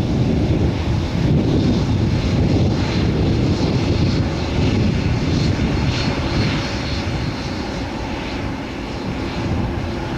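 Boeing 787-10's twin jet engines at takeoff thrust: a steady, dense low rumble with a faint high whine over it, easing slightly near the end.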